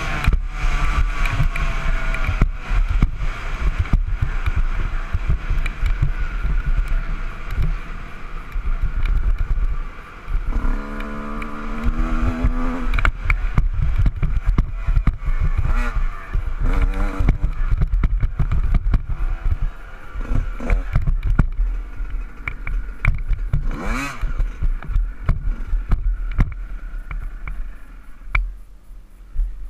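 Honda CR125 two-stroke single-cylinder dirt bike engine running under riding, partly buried under heavy wind buffeting and thumping on the microphone. Revs pick up briefly about eleven seconds in, and there is a quick rising rev a little later.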